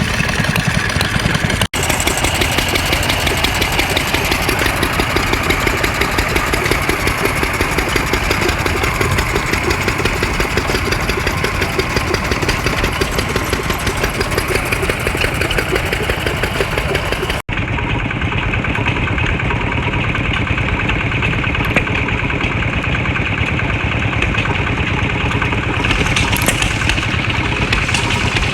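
Engines running steadily, each with a fast, regular firing beat. The sound changes abruptly about two seconds in and again about seventeen seconds in, as one running engine gives way to another.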